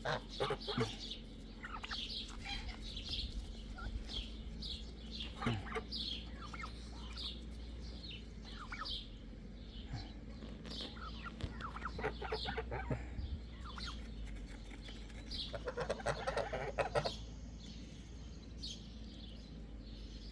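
Backyard poultry calling: a string of short, high, falling chirps throughout, with a brief flurry of clucking about sixteen seconds in.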